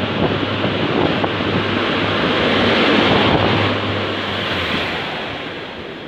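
Northern Class 142 Pacer diesel railbus passing close by along the platform: a steady low engine drone under loud rushing rolling noise that swells to its loudest about halfway through, then fades as the train goes past.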